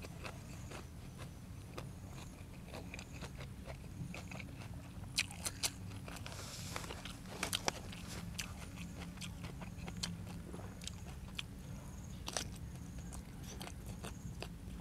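Close-miked chewing and crunching of blanched squid and fresh raw vegetables, a steady run of wet crackles and crisp bites, with a few sharper, louder crunches in the middle.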